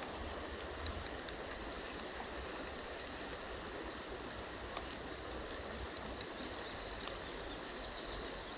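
Steady rush of a shallow creek's running water, with faint high chirps now and then.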